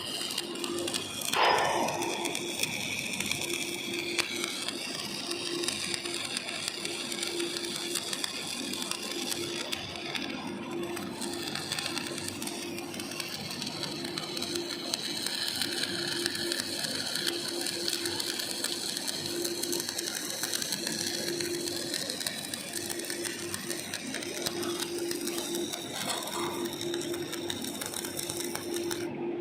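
Electric arc welding on steel deck plate joints: a steady, continuous crackle of the arc with a low hum that comes and goes, and a short louder burst about a second and a half in.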